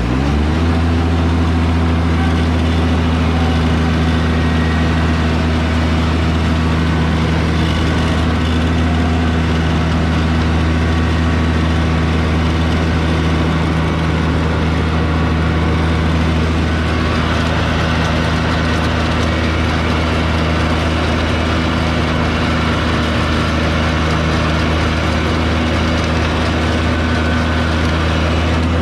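Kubota BX2200 compact tractor's three-cylinder diesel engine running while tilling. Its pitch rises right at the start as it revs up, then holds steady.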